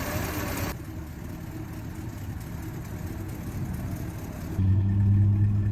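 The 1955 Dodge Royal Lancer's original Hemi V8 running, a low, steady, quiet hum, growing louder with a steady low tone from about four and a half seconds in. A steady hiss cuts off under a second in.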